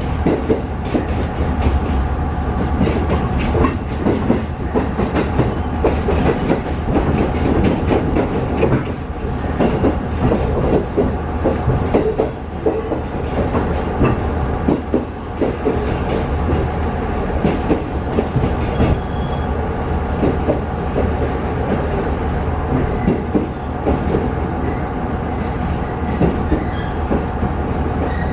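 Passenger train running along the line, heard from inside the car: wheels clicking and clacking over rail joints over a steady low drone.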